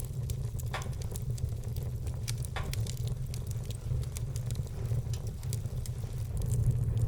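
Wood fire burning with a steady low rumble and irregular crackles, with two louder pops from the burning logs, one about a second in and another a couple of seconds later.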